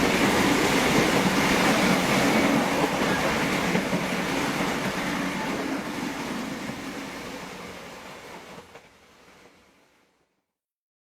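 Economy-class passenger train running on the rails, a steady dense rumble that fades away gradually and ends in silence near the end.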